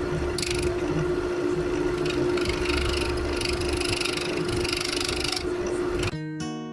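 Wood lathe running slowly with a steady motor hum while a gouge cuts the bottom of a bowl, giving an uneven scraping of shavings. About six seconds in it cuts off suddenly to acoustic guitar music.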